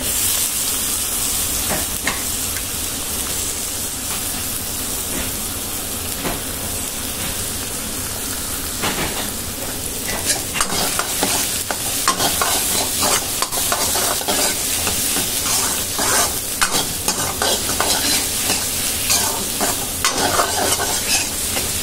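Chopped garlic and ginger sizzling in hot sesame oil in a steel wok, with a steel ladle stirring and scraping against the pan. The scraping comes more often from about halfway through.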